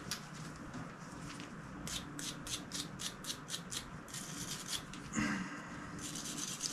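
A stainless steel wire brush scrubbing the metal back plate of a Benelli Vinci shotgun. About two seconds in comes a quick run of about nine even strokes, about five a second. More scrubbing follows, with one brief louder pitched sound about five seconds in and continuous brushing near the end.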